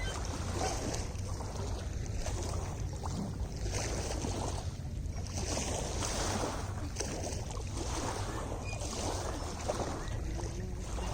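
Small lake waves lapping against the shore, the water's wash swelling and ebbing about once a second, over a low rumble of wind on the microphone.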